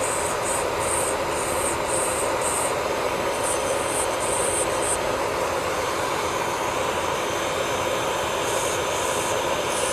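Electric nail drill (e-file) running at a steady whine, its bit grinding on the nail in short repeated strokes that come through the first half and again near the end.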